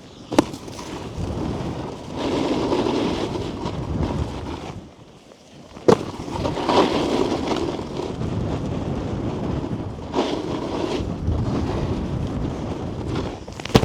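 Snowboard sliding and scraping over packed snow with wind buffeting the helmet-mounted microphone. About halfway through the scraping drops away for about a second, then a sharp thud as the board lands a jump, and the sliding resumes.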